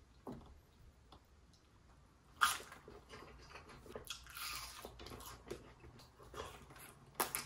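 Sauce-glazed Korean fried chicken being bitten and chewed close to the microphone: a sharp crunchy bite about two and a half seconds in and another near the end, with chewing and small crackles between.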